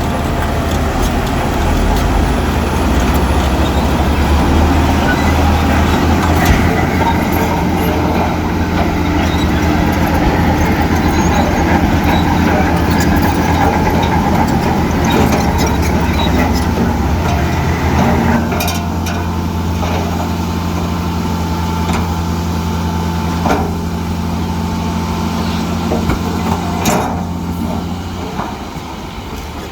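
Heavy diesel construction machinery running steadily, with scattered metal clanks and knocks. The engine note drops away near the end.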